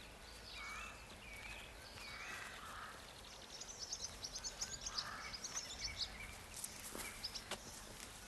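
Birds singing faintly in quiet outdoor ambience: a few short chirps, then from about three seconds in a rapid high twittering run lasting a couple of seconds. A few faint knocks follow near the end.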